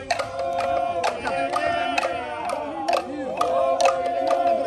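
A group of voices singing or chanting together in long held notes, with sharp percussive strikes throughout.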